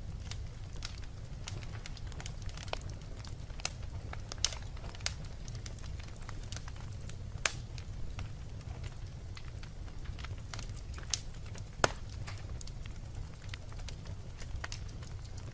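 Wood fire in a fireplace crackling: irregular snaps and pops over a steady low rumble of the flames, with a few louder pops about four and a half, seven and a half, and eleven to twelve seconds in.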